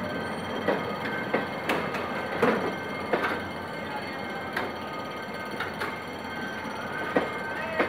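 Passenger coaches rolling slowly past, their wheels clacking irregularly over the track above a steady rolling rumble.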